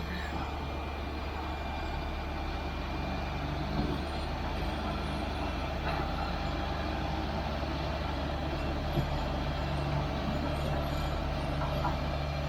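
Heavy diesel machinery engine running steadily with a low drone, a little stronger from about eight seconds in.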